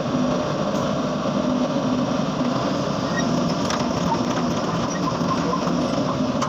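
Excavator's diesel engine running steadily with an even low pulse.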